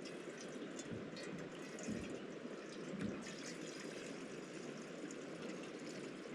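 Steady rush of flowing river water, with a few soft low knocks about one, two and three seconds in.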